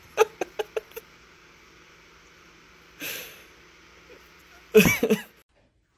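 Pet bird on a laptop keyboard: a quick run of short sharp chirps in the first second, a short breathy rush about three seconds in, and a loud harsh squawk about five seconds in. It cuts off abruptly.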